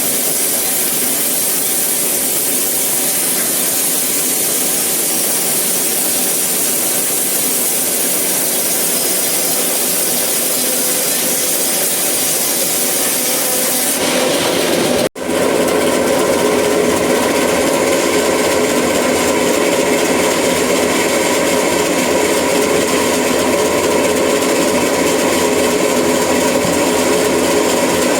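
Sawmill saw cutting eucalyptus wood: a loud, steady sawing noise with strong high hiss. About fifteen seconds in it drops out for an instant and resumes as a fuller, lower saw noise with a steady hum.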